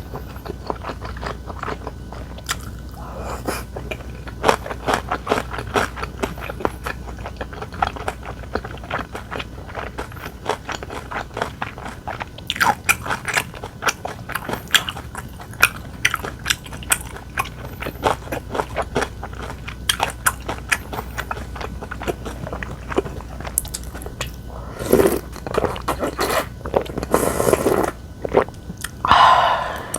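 Close-miked eating: steady wet chewing and crunchy biting of food, with rapid small clicks and crackles. A few longer, louder mouth sounds come near the end.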